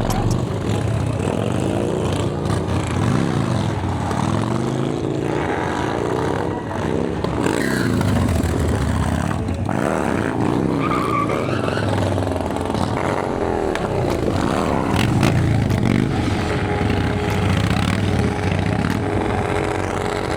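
Motorcycle engines revving up and down over and over, their pitch rising and falling every second or so.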